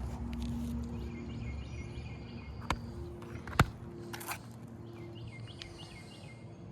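Outdoor background noise with a low rumble and faint bird chirps. Two sharp taps about a second apart come roughly three seconds in, and the second is the loudest sound.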